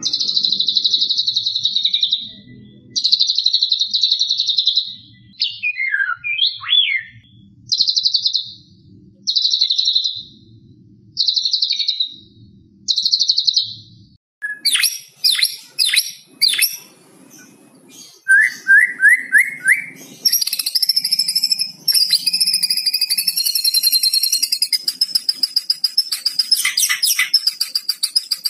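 White-rumped shama (murai batu) calling: a run of harsh, rattling 'kretekan' phrases, each a second or two long and repeated every couple of seconds. About halfway through the song changes abruptly to sharp high whistles, a few quick rising trills and a long wavering whistle.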